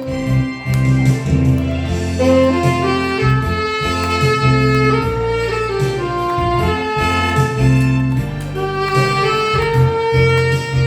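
Saxophone playing a song melody in held, connected notes over accompaniment with a pulsing bass line.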